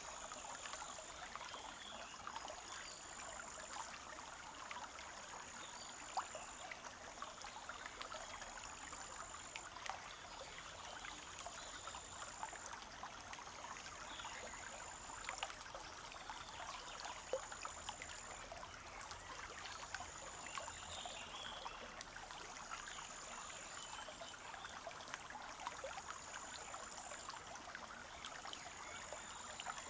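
Forest stream trickling, a steady rush of water with many small splashes and drips. A thin high note, about a second long, repeats roughly every two seconds over it.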